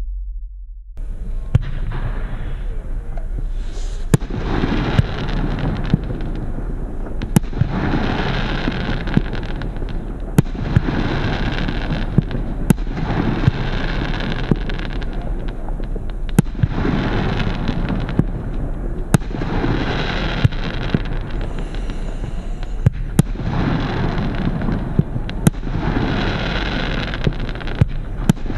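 Wolff 'Disorder' 72-shot, 25 mm consumer firework battery (category F2) firing: sharp bangs every two to three seconds over a continuous crackle and hiss, starting about a second in.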